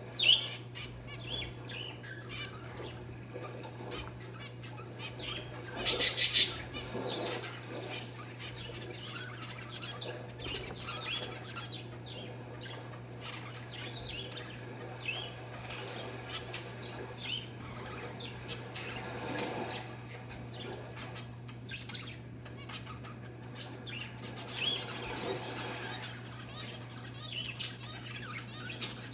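Parakeets and zebra finches chirping, with many short, overlapping calls scattered throughout and a loud brief burst about six seconds in. A steady low hum runs underneath.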